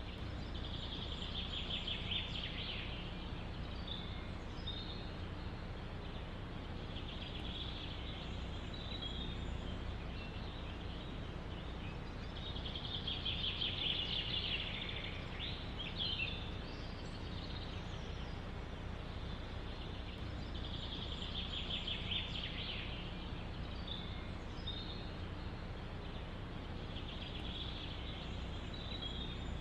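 A songbird singing a fast trill of rapidly repeated notes, about every six seconds, with shorter chirps between, over a steady low background rumble.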